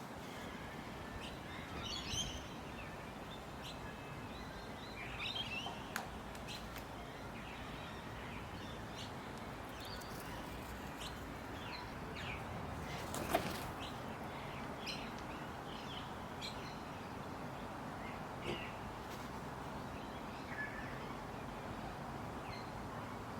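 Birds calling in short, scattered chirps over a steady background hiss, with a single sharp click about halfway through.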